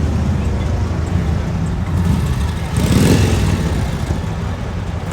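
Engine of an antique vehicle running with a steady low rumble, swelling louder about three seconds in with a brief rise and fall in pitch.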